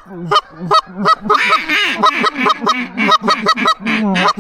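Canada geese honking: a rapid run of short honks and clucks, about four a second.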